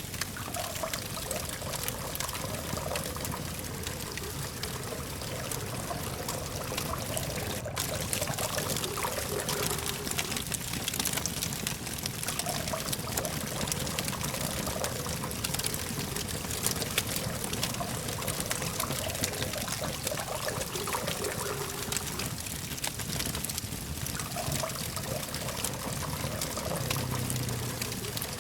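Campfire crackling with a dense run of small pops and ticks, over a steady low hum of distant traffic.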